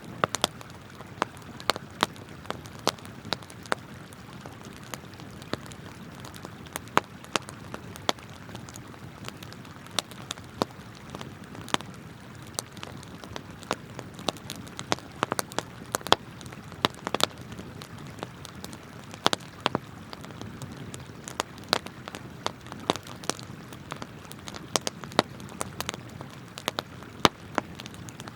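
Wood campfire crackling, with sharp pops coming irregularly several times a second, over the steady rush of a flowing river.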